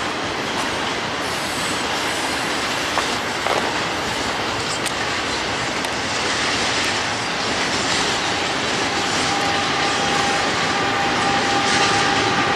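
Intermodal freight train cars rolling past, a steady dense rush of steel wheels on rail with a few sharp clicks from the rail joints. About two-thirds of the way in, a steady high wheel squeal joins in and holds.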